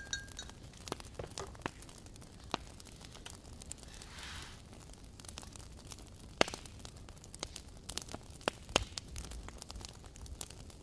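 Campfire crackling, with irregular sharp pops and snaps and a short hiss about four seconds in.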